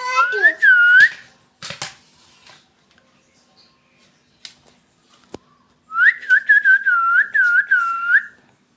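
A pet parrot whistling: a quick burst of gliding whistles at the start, then about two seconds of repeated dipping whistle notes in a run of about six, with a few sharp clicks in between.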